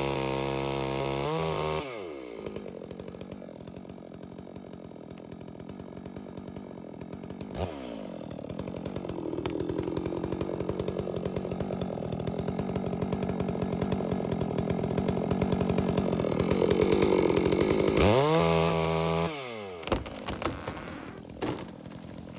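Holzfforma G660 two-stroke chainsaw at high revs, dropping about two seconds in to a lower, evenly firing run for most of the stretch, then revving high again near the end and falling back.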